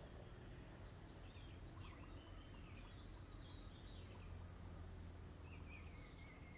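Birds chirping faintly over a low outdoor background hum, with a short, high, rapid trill of about five notes some four seconds in, followed by a faint falling whistle.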